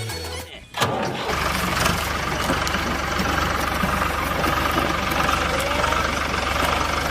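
Tractor engine starting under a second in, then idling steadily.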